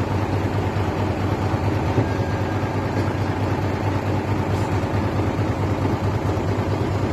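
Dump truck engine running steadily, a deep even rumble.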